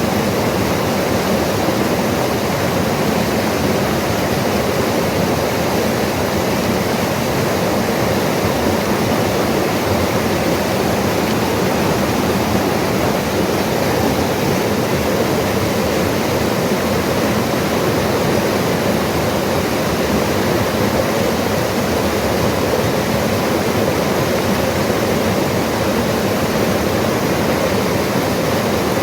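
Mountain river rushing steadily over rocks, a continuous loud wash of water.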